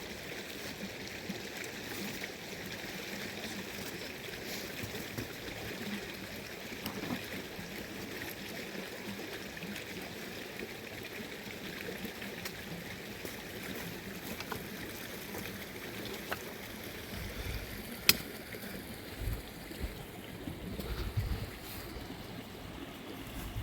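Steady rushing of running water. One sharp click comes about eighteen seconds in, and low rumbles come in the last several seconds.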